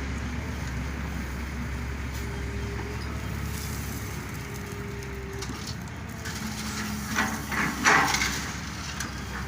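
Excavator's diesel engine running steadily with a steady whine, then rocks crashing and clattering loudly about seven to eight and a half seconds in as they are loaded onto a truck.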